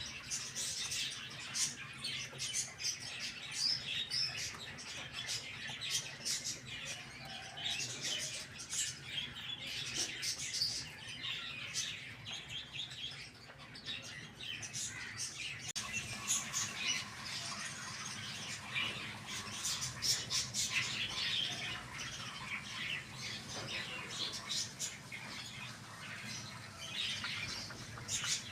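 Many small birds chirping in a busy, continuous chatter of short, high calls.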